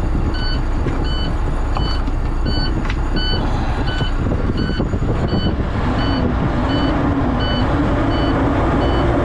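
Semi truck's diesel engine running with an electronic warning beeper sounding over it, a short beep about every 0.7 seconds. A low wavering drone joins about halfway through.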